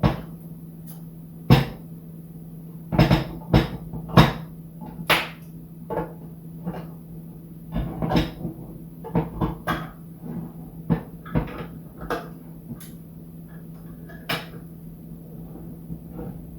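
A run of household knocks and clatters, like doors and objects being handled, over a steady low hum.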